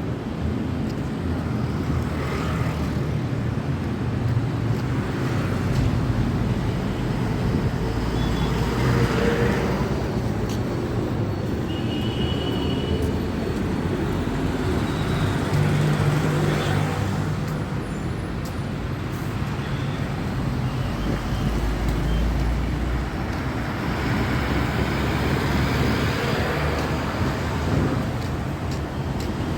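Steady road traffic close by: a continuous wash of engine and tyre noise from passing vehicles that swells and fades as they go by.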